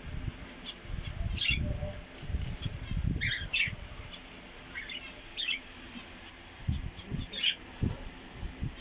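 Small pet birds bathing: wings fluttering in bursts as they splash, with short high chirps now and then.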